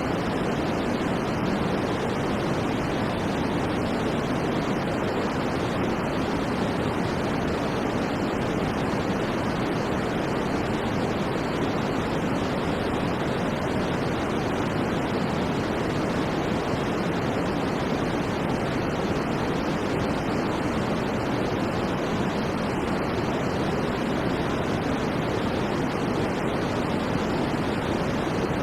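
Steady synthetic white noise for sleep, an even hiss without rhythm or change, fuller in the lows than in the highs.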